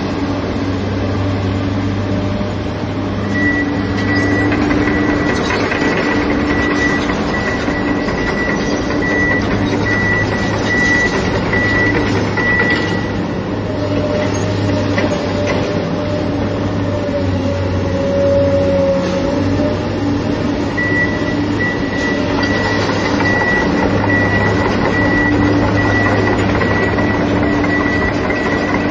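Excavator's diesel engine running with a steady deep drone. A high whine comes in about three seconds in, drops out around thirteen seconds, and returns around twenty-one seconds.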